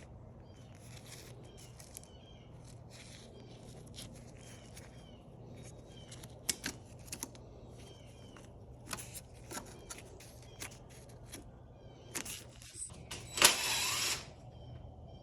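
Scattered light clicks and knocks of hand tools and bolts on a dirt bike being taken apart, with a louder rattle and scrape about 13 seconds in, over a steady low hum.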